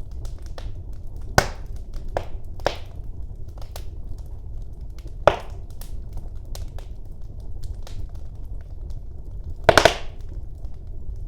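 Wood fire burning in a fireplace: a steady low rumble of flames with scattered crackles and sharp pops, the loudest pops about a second and a half in, just past five seconds, and a quick cluster near the end.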